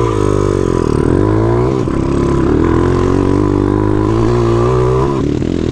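Pit bike's single-cylinder four-stroke engine running under varying throttle, its pitch rising and falling, then dropping off about five seconds in.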